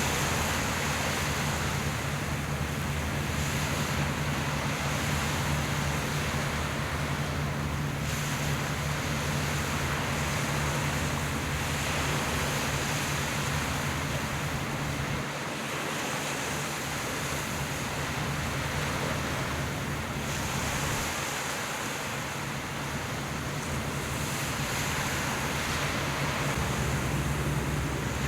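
Steady wind and sea noise with wind buffeting the microphone, over the low, steady hum of a boat engine.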